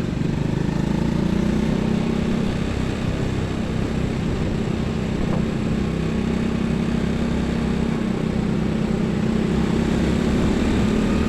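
Highway traffic with a heavy vehicle's diesel engine droning steadily as it passes, its pitch rising slightly near the end.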